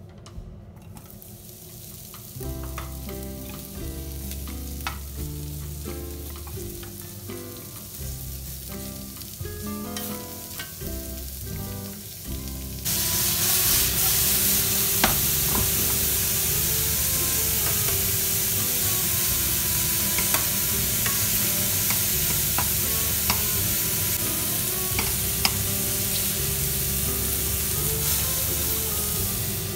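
Sliced champignon mushrooms frying in oil in a nonstick pan. A faint sizzle from the hot oil turns suddenly into a loud, steady sizzle about thirteen seconds in, as the mushrooms go in. A spoon clicks against the pan now and then as they are stirred.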